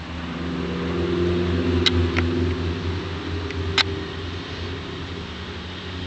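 Small single-cylinder 3.5 hp Briggs & Stratton engine of a vintage mini bike running, swelling over the first two seconds and then easing back. A few sharp clicks sound about two and four seconds in.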